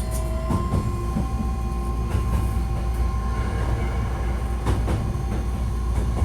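Hankyu 1300 series electric train running, heard from inside the car: a steady low rumble with faint steady motor tones, and a few short clicks from the wheels on the track.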